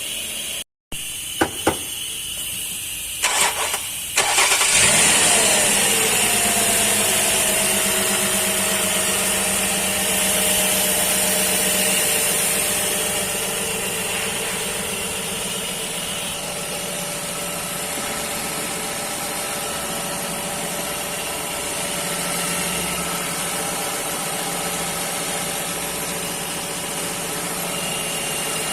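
The 2007 Nissan Murano's 3.5-litre V6 is cranked by the starter about three to four seconds in, catches and settles into a steady idle. A whine drops in pitch as the idle comes down. This is the first start after a thermostat replacement and new drive belts, with the coolant refilled.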